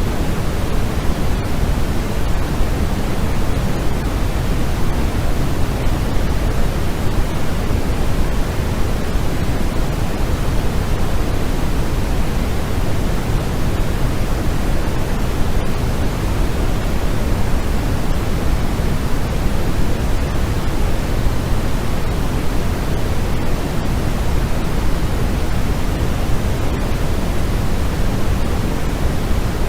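Steady, unchanging white-noise sleep sound, its hiss weighted toward the low end like pink noise.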